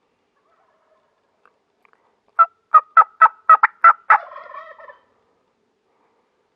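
Turkey calling: a quick run of about seven sharp yelps, roughly four a second, ending in a short rattling trail.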